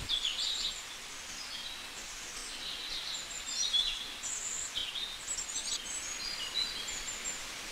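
Small birds chirping in the background, many short high calls scattered throughout, over a faint steady hiss.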